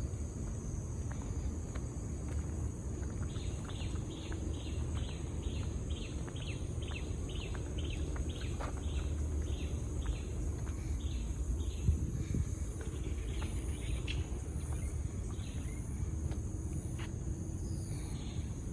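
A bird calling a long series of short repeated notes, about two or three a second, tapering to scattered notes after about eleven seconds, over a steady high drone of insects and a low rumble.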